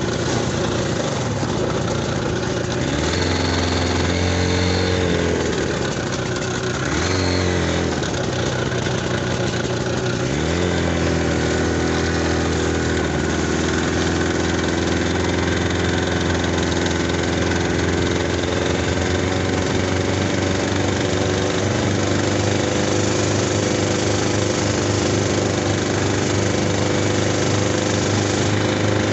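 Buran 640 snowmobile's two-stroke twin engine revving up and easing off twice, then revving up a third time and running steadily as the machine drives on.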